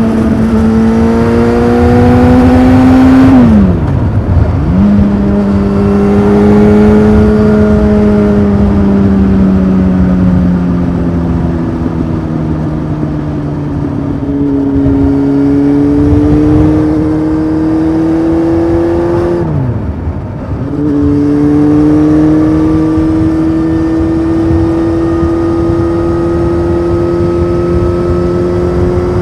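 Honda CBF 600's inline-four engine through a titanium sport exhaust, pulling while riding. Revs rise and ease off slowly, with two quick dips for upshifts about 4 and 20 seconds in.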